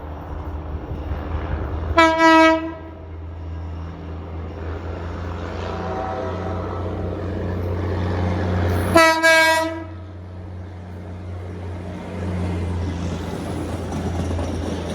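A rail inspection vehicle passing with its engine running steadily, sounding its horn in two short blasts about seven seconds apart.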